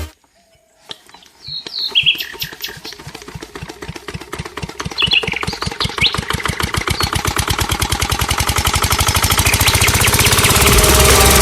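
Miniature model diesel engine starting up, firing in quick, even pulses that speed up and grow steadily louder as it comes up to speed. A few short high squeaks sound over it early on.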